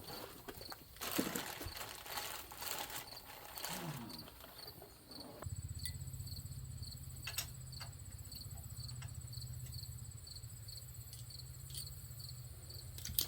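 A cricket chirping in an even rhythm, about two chirps a second. For about the first five seconds there is rustling and clatter of things being handled, and then a steady low hum sets in.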